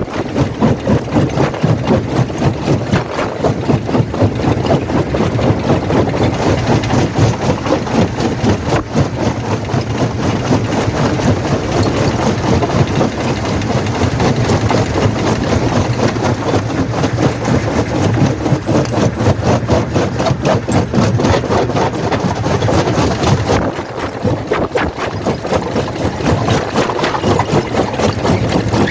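Quarry primary jaw crusher running: a loud, steady machine drone with dense, rapid clattering. It eases briefly about 24 seconds in.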